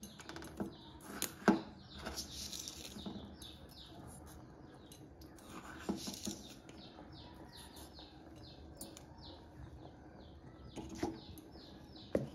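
Faint high chirps repeating steadily about twice a second, broken by a few sharp clicks and knocks of kitchenware.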